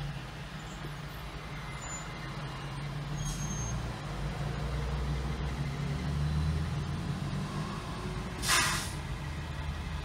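Fire truck's diesel engine running close by, growing louder in the middle, then a short hiss of its air brakes near the end.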